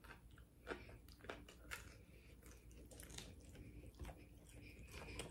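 Faint mouth sounds of someone chewing crispy fried pork chop, with a few sharp crunches of the fried breading spread through.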